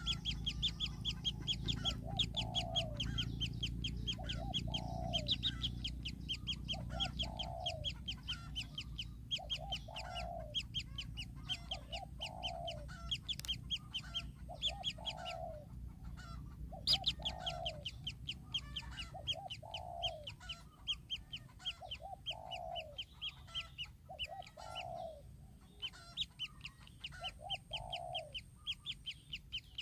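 Birds calling: a short falling call repeats about once a second, often twice in quick succession, over a fast, high-pitched ticking trill. A low rumble underneath fades away in the first several seconds.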